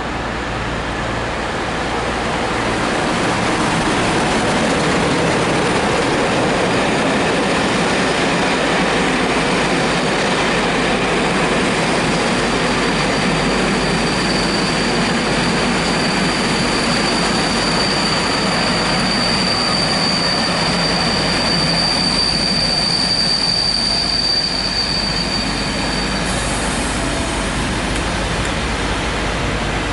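A locomotive-hauled passenger train, Class 47 diesels 47805 and 47810, rolls into a station platform with a steady rumble of wheels on rail. From about halfway through, the brakes give a high, steady squeal as the train slows, and the squeal cuts off suddenly near the end.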